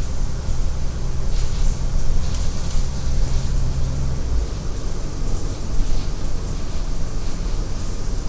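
Inside a city transit bus on the move: the engine's low, steady drone with tyre and road noise, and a few brief hisses in the first half. The engine note changes about four seconds in.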